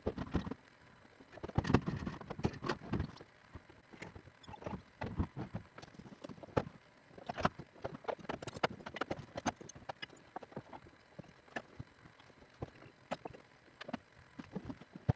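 Irregular clatter of sharp knocks and clicks from excavator and tool work, loudest about two seconds in.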